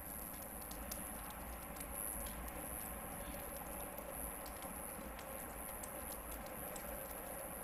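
Hardwood campfire crackling: irregular small pops and ticks over a soft, steady hiss of the burning wood.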